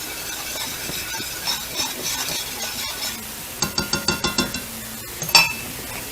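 Sauce sizzling in a pan on low heat while a utensil stirs it, with small scrapes and ticks against the pan. About three and a half seconds in comes a quick run of about six metal clinks, then a single louder ringing clank near the end.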